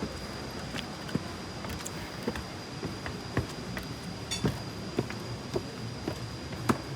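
Footsteps at an even walking pace, about two a second, over a steady high-pitched whine.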